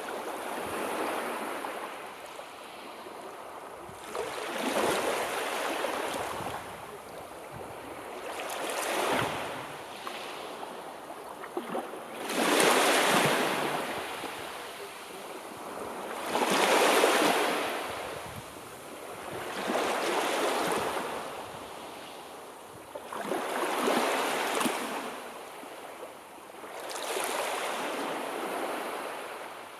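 Sea waves breaking and washing in, a swell of rushing surf about every four seconds, each rising and then falling away.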